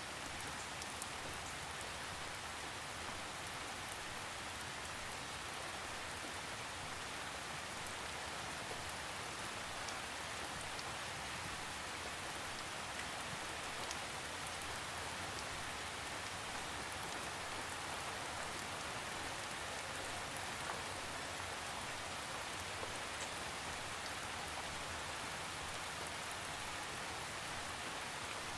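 Steady rain falling on a surface, an even hiss with scattered individual drops ticking, no thunder.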